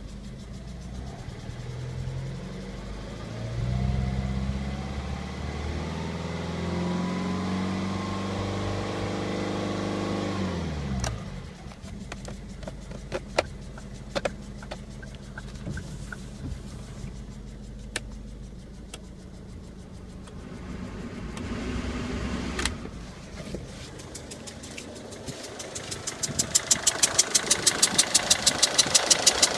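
Ford Focus II 1.6-litre engine running: its pitch climbs slowly for several seconds as it is revved, then drops back to idle about ten seconds in. It idles more quietly for a while. Near the end it is heard close up from the engine bay as a loud, even, rapid ticking, about four or five ticks a second.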